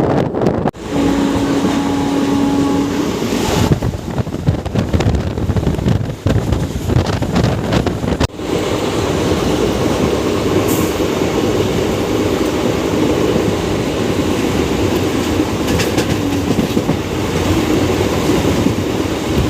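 Matsyagandha Express passenger train running along the track, with steady running noise and wheels clattering over the rails. A brief steady tone sounds about a second in.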